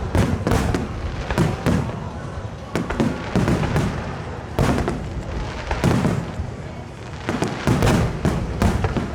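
Aerial fireworks bursting in a rapid series of sharp bangs, often several in quick succession, over a continuous low rumble.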